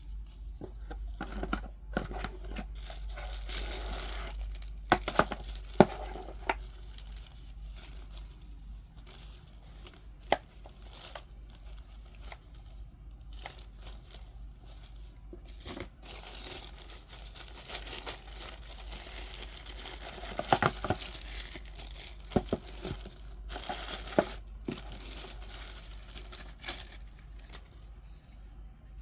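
Packaging being torn open and crinkled by hand, an irregular rustling broken by several sharp clicks and snaps.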